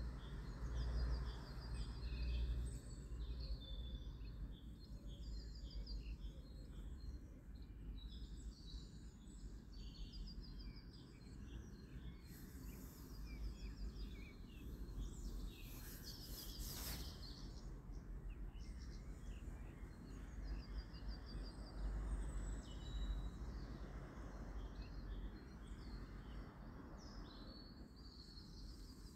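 Birdsong: a short, high trilled phrase repeated every four to five seconds over a low steady rumble, with a brief hiss about halfway through.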